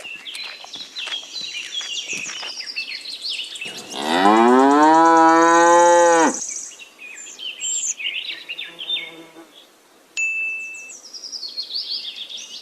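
A cow mooing once: one loud call of about two and a half seconds that rises in pitch at the start and then holds. Birds chirp throughout.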